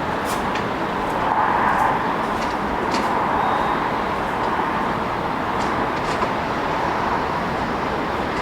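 City street traffic: a steady rush of passing vehicles, swelling slightly as vehicles go by about a second and a half in and again around three seconds, with a few faint light ticks over it.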